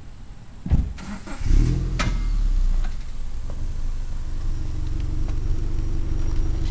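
Kawasaki 750SX jet ski's two-stroke twin engine being started: a brief first burst, then it catches about a second and a half in and runs steadily at idle.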